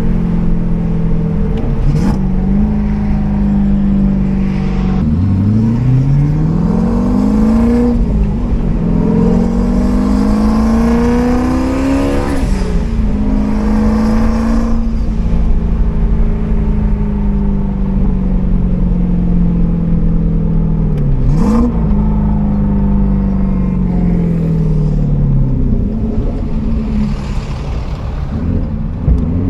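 Turbocharged Ford Coyote 5.0 V8 in a Mustang, running loud under way. It pulls up in revs several times, holds and eases off between the pulls, and there are short breaks at the gear changes of the manual gearbox.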